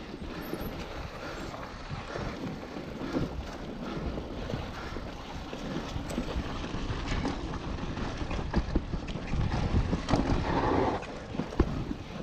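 Mountain bike ridden over a rough dirt and rock trail: tyres crunching and the bike rattling with many small knocks, with wind on the microphone. The noise gets louder briefly about ten seconds in.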